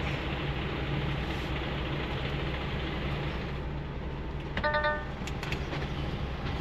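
DAF semi truck's engine running steadily with road noise while driving. A short electronic beep sounds a little past the middle, followed by a few quick clicks.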